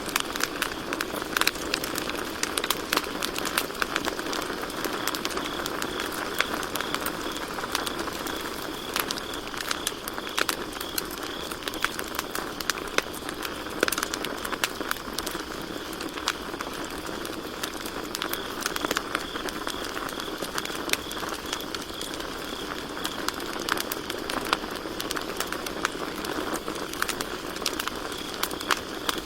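Campfire crackling and popping with dense, irregular snaps over a soft hiss of burning wood, while crickets chirp steadily in a continuous high-pitched pulsing trill.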